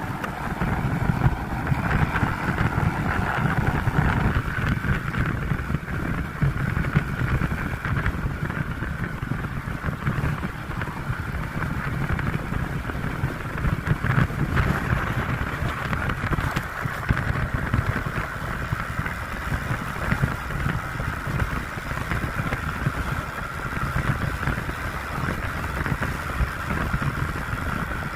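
Motorcycle engine running steadily while being ridden, a continuous low rumble with no marked changes in speed.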